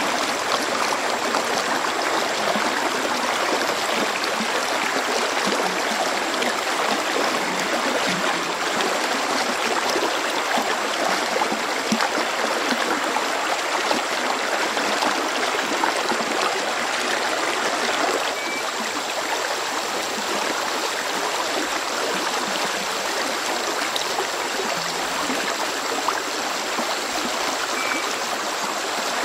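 Running water of a stream, a steady rushing with no break; it drops slightly in level a little over halfway through.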